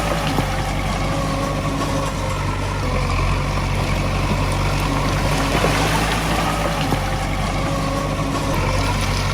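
Diesel engine of a Komatsu D20A bulldozer running steadily, with a few faint knocks over the engine noise.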